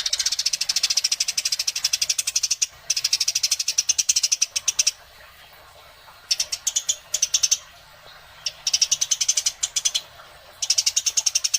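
Eurasian tree sparrows giving fast runs of high, sharp chirps, five runs of one to three seconds each with short pauses between them: the rolling, agitated chatter of sparrows fighting.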